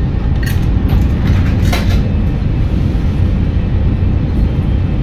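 Steady low rumble of an Italo high-speed train running, heard inside the carriage. A few sharp clicks and rattles come in the first two seconds.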